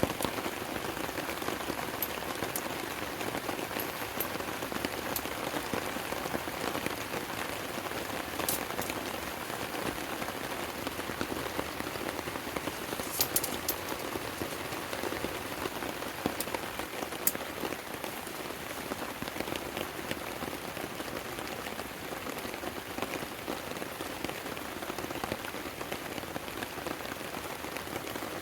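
Heavy rain falling steadily, an even hiss with occasional sharp drop clicks.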